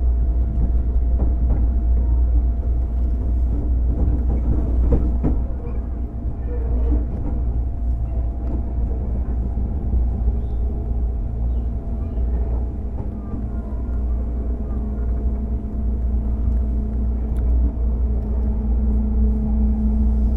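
JR 205 series electric train running, heard inside a motor car with MT61 externally-fanned traction motors: a steady low rumble of wheels on rail with a few faint whining tones above it.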